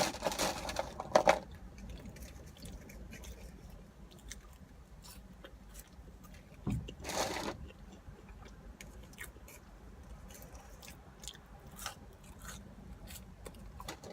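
Close-miked chewing and biting of a cheeseburger and fries, with many small mouth clicks. There are louder moments near the start and about seven seconds in.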